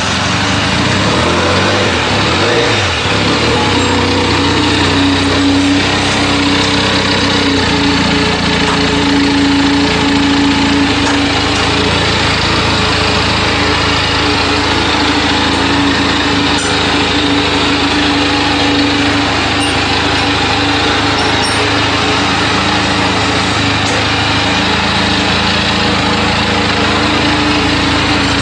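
Benelli TNT300's 300 cc parallel-twin engine running steadily through a loud aftermarket exhaust.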